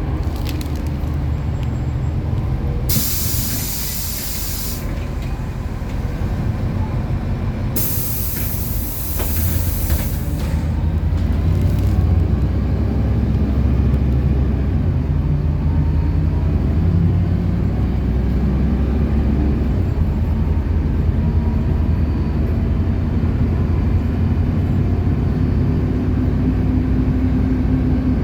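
City bus standing at a stop with its engine running, two long bursts of compressed-air hiss from its pneumatics about three and eight seconds in. The engine then runs louder and steadier as the bus pulls away.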